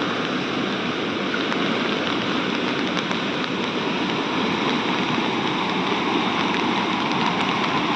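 Steady rushing water: an even, unbroken hiss with no pauses.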